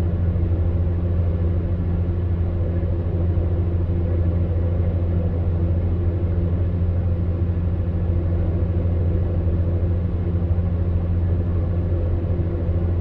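Electric fan heater running steadily: a constant low hum under an even rush of air.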